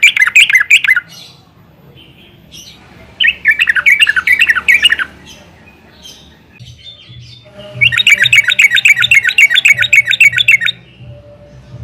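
Yellow-vented bulbul chattering in rapid bursts of repeated notes. The first two bursts are short; the last, starting about 8 seconds in, runs about three seconds.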